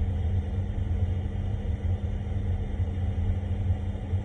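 Low, steady road rumble inside a moving car's cabin, with a faint steady hum under it.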